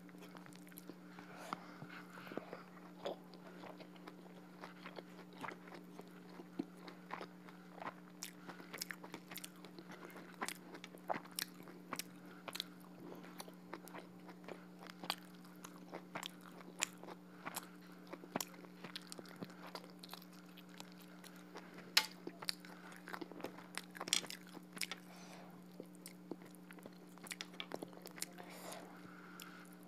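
Close-miked chewing and mouth sounds of someone eating rice and duck curry by hand: irregular small wet clicks and crunches, over a steady low hum.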